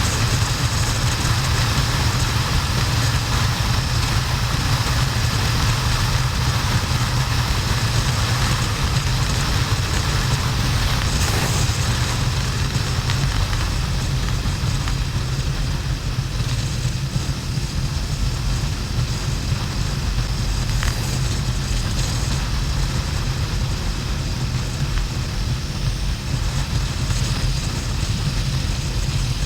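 Harley-Davidson XL1200N Sportster's air-cooled V-twin running steadily at cruising speed, with heavy wind and road noise, heard from a camera mounted on the moving motorcycle.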